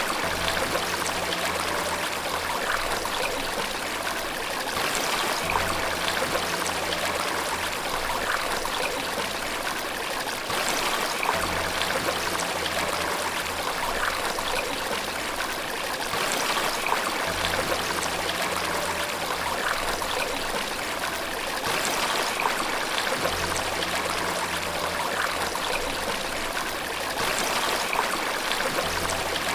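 Steady rushing water. Beneath it, soft low musical notes change about every five to six seconds.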